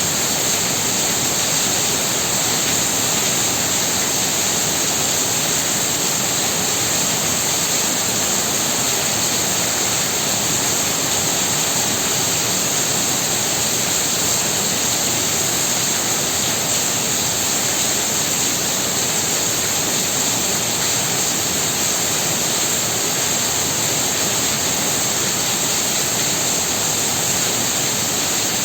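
Heavy rain pouring down steadily: a dense, even hiss that holds at one level without letup.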